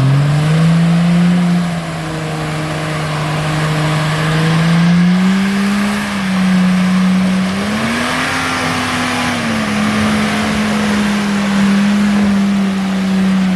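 Off-road 4x4's engine running hard under throttle, its pitch rising and falling several times as the revs change, with a hiss that swells near the middle.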